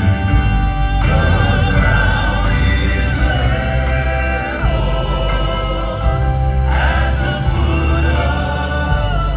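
Live southern gospel music: sustained choir-like vocal harmony on long held notes over a band with a strong bass.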